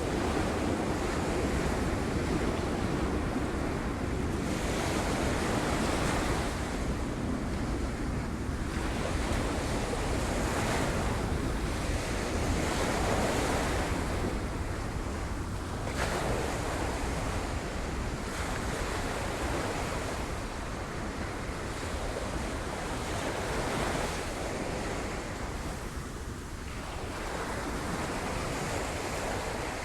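Sea waves surging and breaking against rocks, a continuous rush that swells every few seconds, with wind buffeting the microphone.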